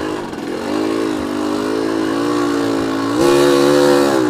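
Yamaha RX Special single-cylinder two-stroke engine running under way on the trail bike at a fairly steady pitch, then louder as more throttle is given about three seconds in.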